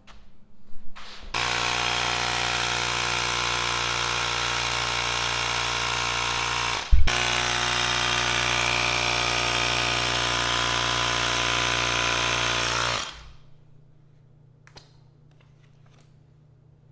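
A small electric motor running steadily for about twelve seconds, a loud, even buzz with a brief knock and break about seven seconds in, then stopping abruptly.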